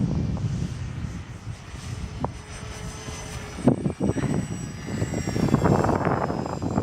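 Avios BushMule RC plane's electric motor and propeller running with a thin high whine, under gusty wind rumbling on the microphone. A couple of knocks come about four seconds in.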